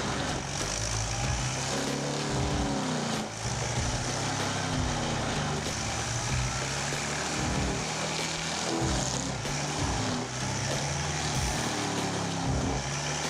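Engine of a CMI track-mounted forestry mulcher running steadily under load, its pitch rising and falling, with the noise of the mulching work over it.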